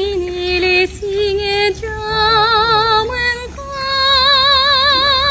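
A song: a high woman's voice singing long held notes with a wide vibrato, each phrase a few sustained notes.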